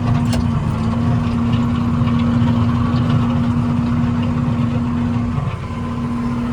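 Tractor engine running steadily while plowing snow, with a steady hum that briefly dips about five and a half seconds in.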